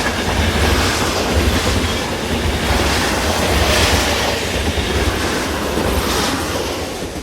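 Train rolling past on the rails: a steady low rumble with rail and wheel noise, fading out near the end.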